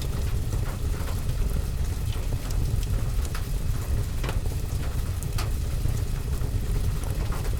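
Steady rain on a window and roof with a deep low rumble underneath, mixed with a crackling fireplace fire: scattered sharp pops and ticks over the rain.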